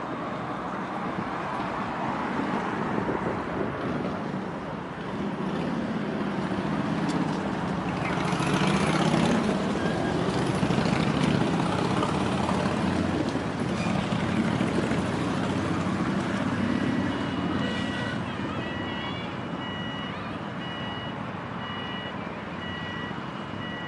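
Narrow-gauge electric railway car running with a rumble and rattle that builds and then eases. A high electronic beeping starts about two-thirds of the way in and repeats steadily.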